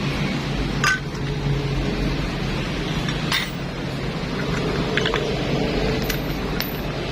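Small metal motorcycle engine parts clinking and tapping as they are handled and fitted, a few separate light clinks a second or two apart, over a steady low background hum.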